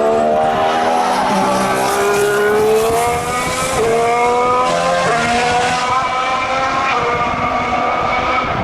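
A 2014 Formula One car's 1.6-litre turbocharged V6 accelerating, its pitch climbing in each gear and dropping at upshifts about a second and a half in, near four seconds and near five seconds, then holding steadier and fading as the car draws away.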